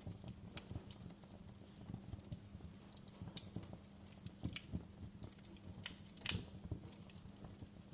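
Wood fire crackling in a fireplace: irregular sharp snaps and pops, several a second, with one louder pop about six seconds in.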